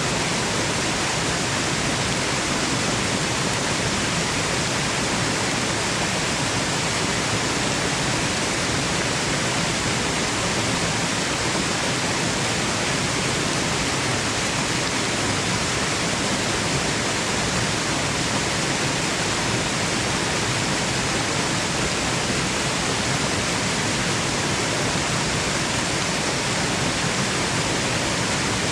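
Waterfall rushing in a steady, unbroken hiss of falling water, even in level throughout, used as white noise for sleep.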